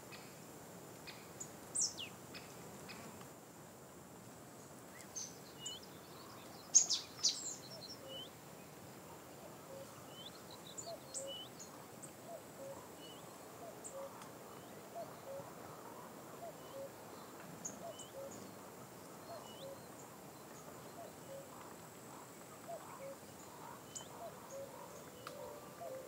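Outdoor birdsong ambience: several birds giving short high chirps and whistles, with louder calls about two and seven seconds in. From about a quarter of the way through, a low short note repeats roughly once a second.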